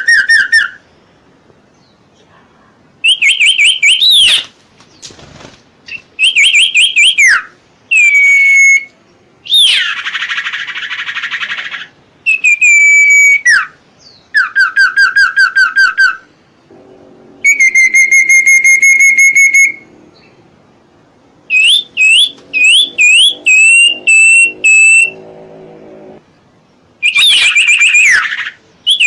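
Recorded bird calls played as a song-tutor track: phrases of rapid, sharp whistled notes that slide up and down, each phrase lasting a second or two with short pauses between. A harsh hissing call comes about ten seconds in.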